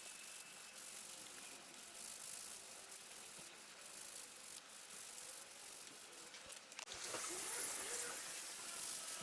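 Faint hissing with scattered light clicks, then a stream of running water starting suddenly about seven seconds in and running steadily, as a hose or tap is opened to wash the wheels.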